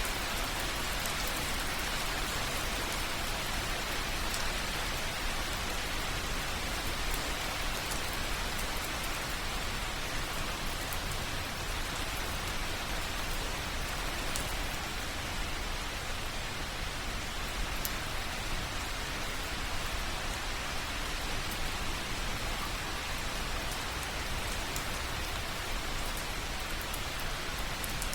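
Steady light rain falling, an even patter with scattered small drip ticks.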